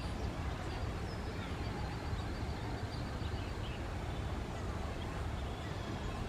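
Faint, scattered bird chirps and calls over a steady low background rumble.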